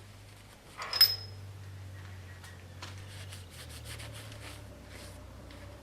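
A sharp metallic clink about a second in, ringing briefly at a high pitch, from steel lathe parts knocking together while being handled. It is followed by faint clicks and rustles of handling, over a low steady hum.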